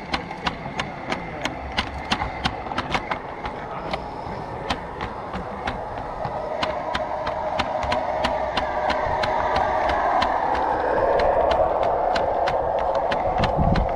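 G scale garden-railway train running on outdoor track, its wheels clicking rhythmically over the rail joints at about three to four clicks a second. A rolling rumble grows louder over the second half as the train comes closer.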